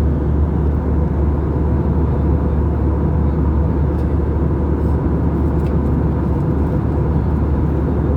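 Steady cabin drone of an Airbus A320 in flight, a deep rumble from its CFM56-5B engines and the airflow heard from a window seat, with a faint steady hum above it.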